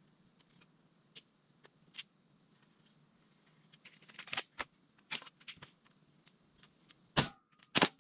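Scattered light clicks and knocks of tools and sheet metal being handled, with two louder knocks near the end.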